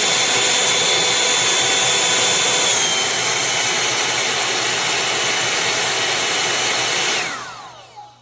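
Dimecano Plus 2.0 hot-air dryer brush running steadily, a loud rush of air with a high motor whine. About seven seconds in it is switched off and the whine falls as the fan spins down, with a faint click near the end.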